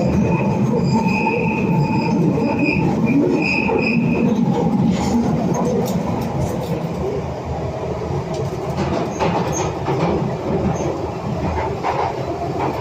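London Underground train running on the track as it pulls away: a steady rumble, with high wheel squeal for the first four seconds or so, then clicks from the wheels passing over rail joints.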